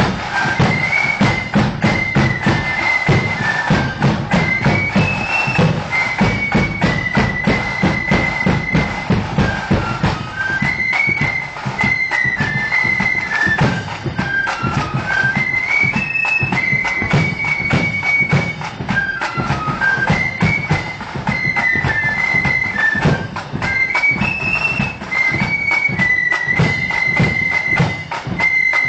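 Marching flute band playing a tune: shrill flutes carry a high melody over rapid snare drum strokes and a heavy bass drum. The phrase comes round again about every ten seconds.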